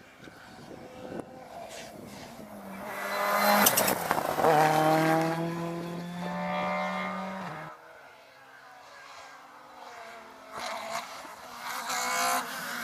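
Rally car engine at full throttle on a tarmac stage, building to a loud pass with a couple of sharp cracks, holding a steady high note for a few seconds, then cutting away suddenly. Near the end another engine builds up again.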